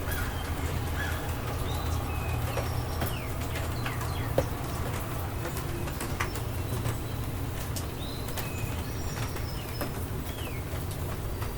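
Rainstorm ambience: a steady low rumble with scattered drips and patter, and birds calling in short, falling chirps throughout.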